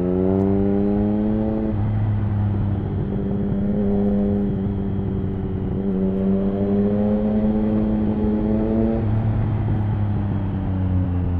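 Triumph Speed Triple 1050's inline three-cylinder engine through an HP Corse Hydroform exhaust, pulling hard with the engine note rising in stretches, broken by quick gear changes. The pitch falls away near the end as the throttle eases off.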